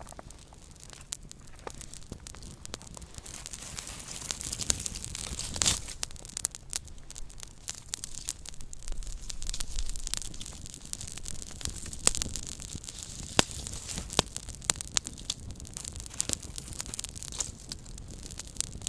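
Small campfire crackling: a steady hiss of burning with many irregular snaps and pops, a few of them louder.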